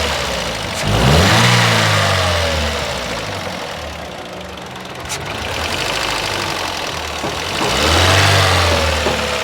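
Toyota Corolla GLi petrol engine revved twice up to about 2000 RPM, about a second in and again near the end, settling back between. It makes a bad mechanical noise that the mechanic puts down to the valve tappets needing adjustment.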